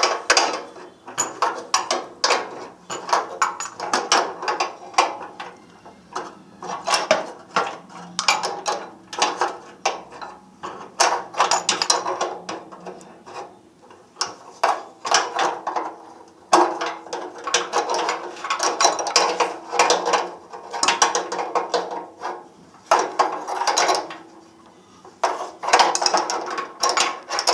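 Ratchet wrench clicking in repeated bursts of rapid strokes with short pauses between them, as a nut is run on and tightened.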